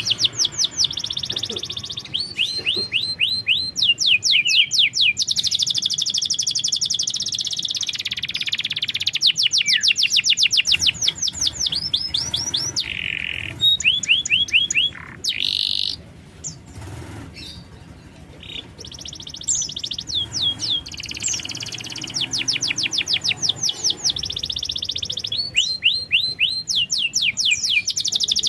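Domestic canary singing: long runs of fast trills and rolled notes. There is a pause of a few seconds about midway, then the song resumes.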